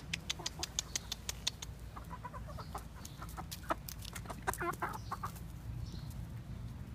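Backyard chickens clucking in short, soft notes, which begin about two seconds in, after a quick run of sharp taps at roughly six a second.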